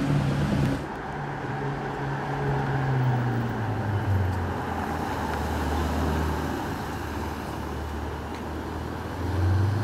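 Car engine running in street traffic: its note drops about four seconds in and holds low and steady, then rises again near the end.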